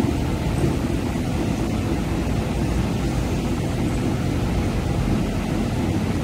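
MTR East Rail Line R-train electric multiple unit pulling out of the platform: a steady low rumble of wheels on rail and traction equipment.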